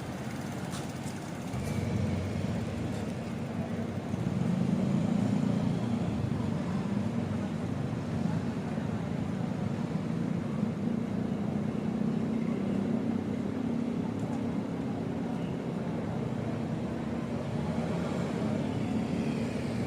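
Steady low rumble of a bicycle being ridden on concrete. It grows louder about two seconds in and again about four seconds in as the pace picks up, then holds.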